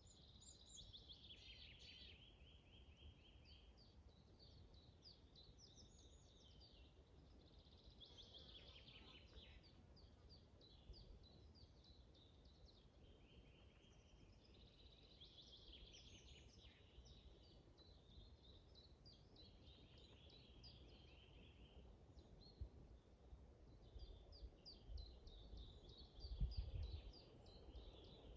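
Faint birdsong: short phrases of rapid, high notes, repeated every few seconds. Under it is a low wind rumble on the microphone, with a stronger gust near the end.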